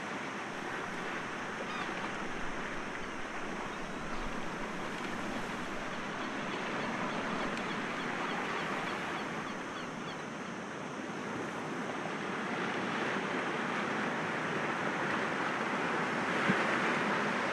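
Sea waves washing against rocks: a continuous rush of surf that swells louder over the last few seconds.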